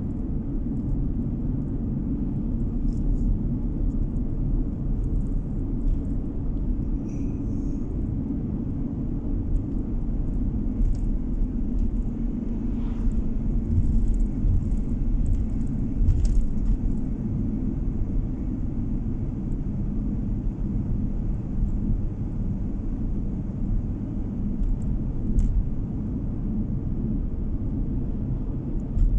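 Steady low rumble of a car driving along a road, tyre and engine noise heard from inside the cabin, with a few faint scattered clicks.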